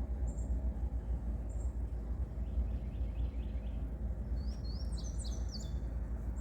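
Small birds chirping and singing: short high chirps early on, a quick run of about five notes a little past the middle, then a burst of rapid chirps near the end. Under them runs a steady low rumble.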